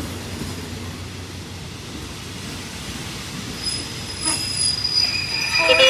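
Passenger coaches of a diesel-hauled train rolling along the platform, a steady rumble of wheels on rail. A high, steady wheel squeal sets in about two thirds of the way through.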